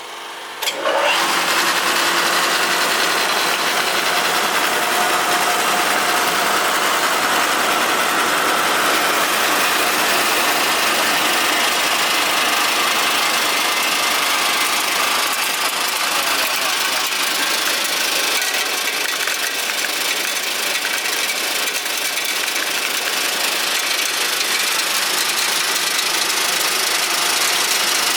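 6N2022-9FC21R mini rice mill machine switching on under a second in, then running steadily with a loud, dense mechanical noise.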